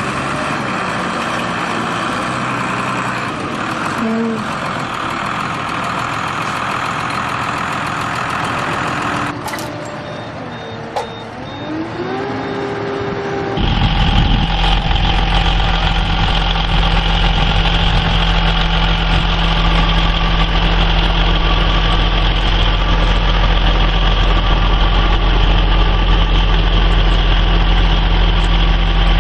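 Heavy vehicle engines running. Just past the middle a louder, very steady engine sound with a deep hum starts suddenly and holds at an even idle.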